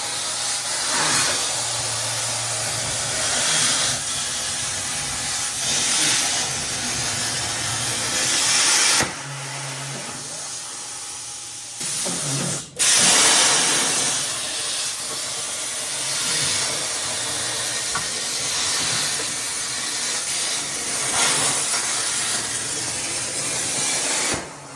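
CNC plasma table cutting small steel plates: the torch's arc hisses loudly as it cuts, stops about 9 seconds in, and starts again with a sharp click a few seconds later.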